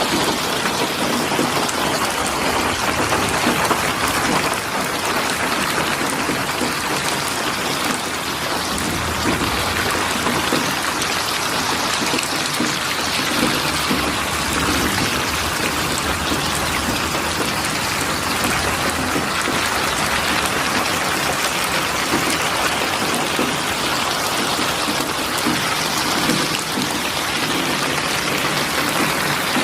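Steady heavy rain falling, an even dense hiss of drops with no breaks.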